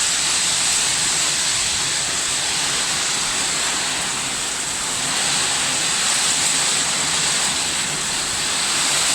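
Steady rushing noise of a storm, with a strong high hiss that stays even throughout.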